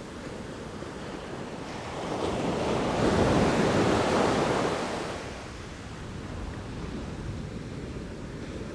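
Sea waves washing in: a wave swells up about two seconds in, breaks loudest around the middle, and subsides, over a steady surf wash.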